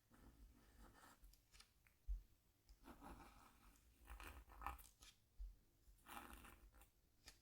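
Scratchboard being scratched: short scraping strokes across its coating, about five of them a second or so apart, with a soft low bump about two seconds in.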